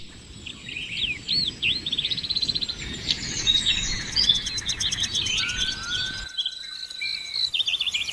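Birds chirping: a busy run of short whistled notes, quick trills and rising and falling calls. The low background noise drops out abruptly about six seconds in while the calls go on.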